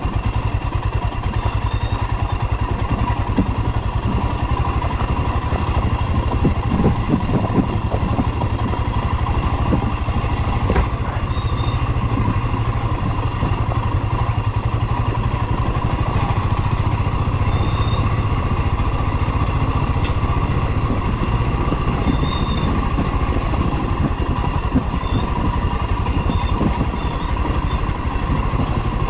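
Royal Enfield Himalayan 411's single-cylinder engine running steadily, with no change in pitch or level.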